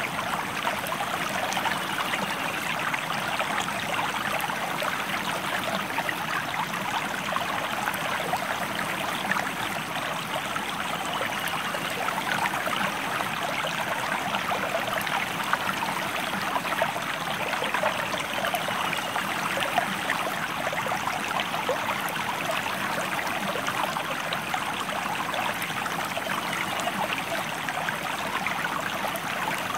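A river or stream flowing steadily, its water splashing and burbling in a constant rush.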